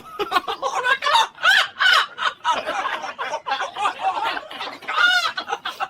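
Hearty laughter mixed with a parrot's squawks, in a run of short, pitched, bending calls, with a louder arched squawk about five seconds in.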